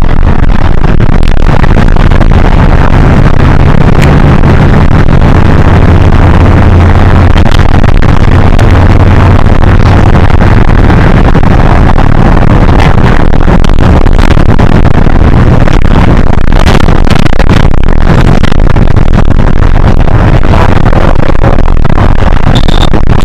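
Hino HS8JRVL city bus heard from inside the cabin: its diesel engine runs with a deep hum that is strongest in the first half and eases off later. Scattered rattles and knocks from the bus come through the engine sound.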